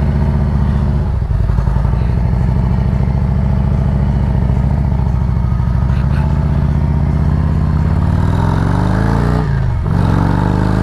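Harley-Davidson V-twin motorcycle engine running steadily under the rider, then accelerating near the end: the pitch rises, drops briefly at a gear change, and rises again.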